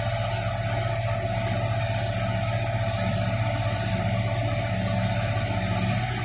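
Crane's engine running steadily at constant speed, with a low, rapid throb and a steady whine above it.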